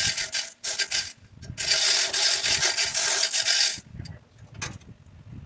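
MIG welder laying beads on steel header tubing: two short bursts of harsh crackling hiss in the first second, then one longer burst of about two seconds, each starting and stopping abruptly.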